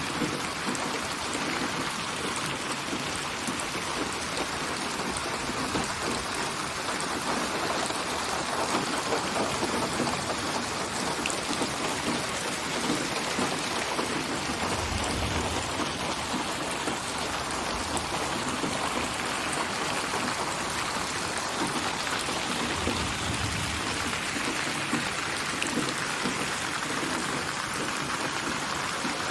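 Steady rain: a synthesized rain ambience built from many recorded rain samples and panned around the listener in 8D binaural sound. Two brief low rumbles come about halfway through and again a little later.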